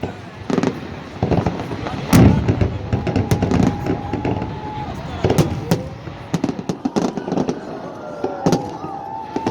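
Festive fireworks salute: a string of sharp bangs from shells bursting overhead, the loudest about two seconds in. Thin high whistling tones come and go between the bangs.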